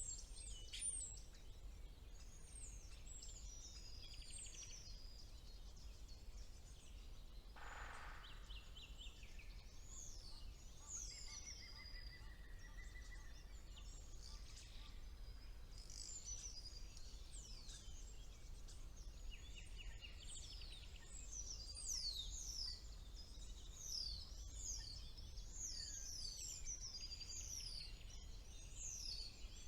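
Several songbirds singing over one another, mostly quick, high, falling notes. A harsh rasping call comes about eight seconds in, and a short steady trill a few seconds after it.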